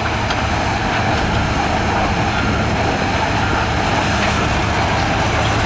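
Heavy diesel construction machinery running steadily, a constant low engine drone under a broad mechanical noise.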